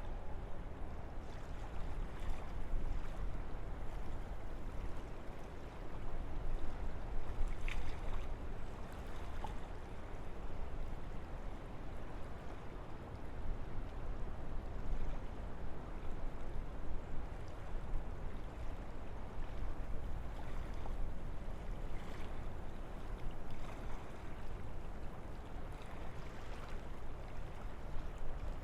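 Wind blowing through forest trees: a continuous, even rushing noise over a deep low rumble.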